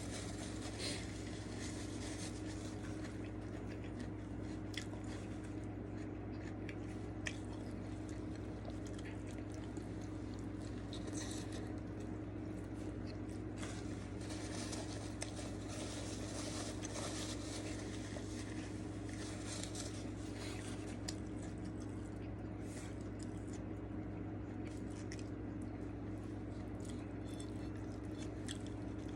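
A person chewing and eating a burger and fries: soft, squishy bites and light crunches with small mouth clicks, scattered irregularly. A steady low hum runs under it.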